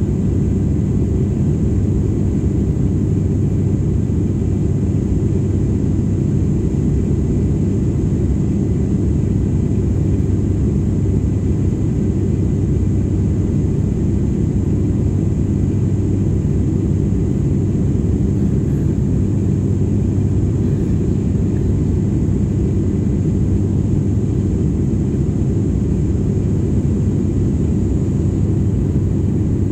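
Airliner cabin noise: a steady, unchanging low drone of the plane's engines with a constant hum underneath, heard from inside the cabin.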